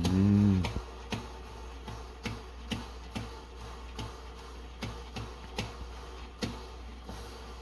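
Electric percolator perking: irregular sharp pops about two a second as water spurts up the stem, over a steady low hum. A brief hummed, voice-like tone at the very start is the loudest sound.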